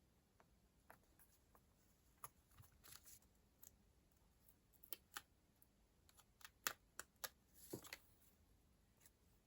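Quiet, scattered clicks and taps of stationery and paper being handled on a desk, the sharpest a little past halfway, with a brief scrape of paper just before the end.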